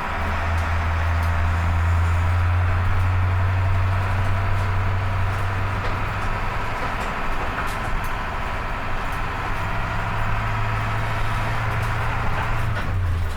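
International T444E V8 turbo-diesel engine running steadily with a deep, even drone, over a steady hiss of wind noise on the microphone.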